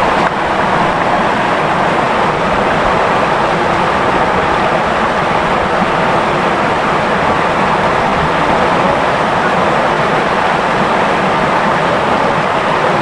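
Clear river flowing over its bed: a steady, even rush of water.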